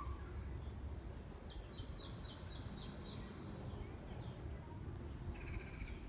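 A small songbird calling: a quick run of about eight short high notes, then another burst of notes near the end, over a steady low rumble.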